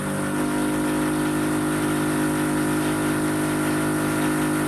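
A motor running steadily at one even pitch, loud and unchanging.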